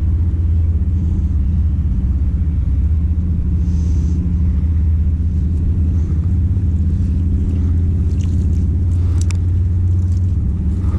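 A steady low engine rumble, a motor running at an even speed with no rise or fall, with a few faint light clicks in the second half.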